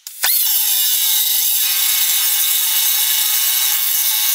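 An electric power tool on steel bar: its motor spins up with a rising whine just after the start, then runs steadily at full speed with a harsh cutting noise.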